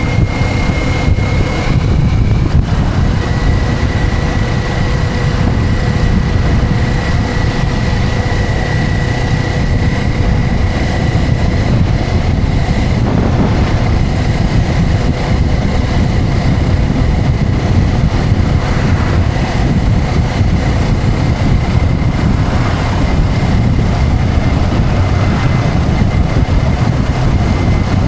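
Motorcycle riding at a steady speed: heavy wind rush over the microphone with engine and road noise underneath, and a faint steady whine held throughout.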